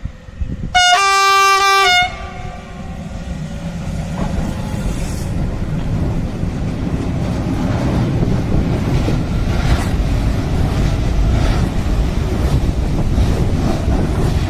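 Freight train's horn sounding one blast of about a second, then the train running past with a steady rumble of wheels on rail that builds and holds, with occasional clacks over the rail joints.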